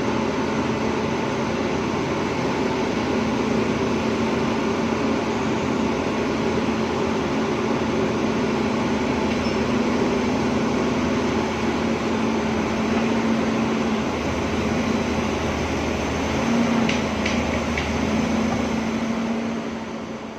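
Excavator's diesel engine running steadily with a constant hum, fading out at the end.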